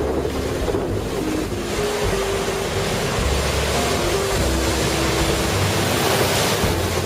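Heavy typhoon surf rushing and crashing against the rocky coast in a steady roar, with strong wind buffeting the microphone in uneven low rumbles.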